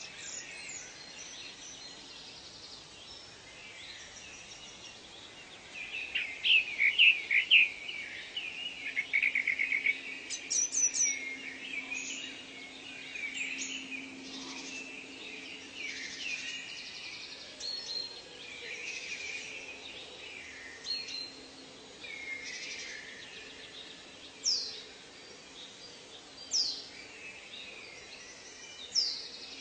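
Several birds singing and calling over one another: chirps and warbled phrases, a rapid trill about nine seconds in, and sharp falling whistles near the end.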